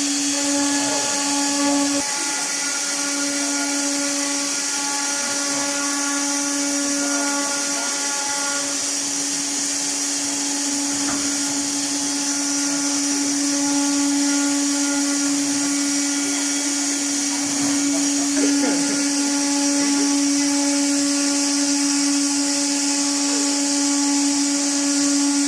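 Electric woodworking machine running steadily, with a constant motor hum and a high hiss. The pitch and load stay even throughout.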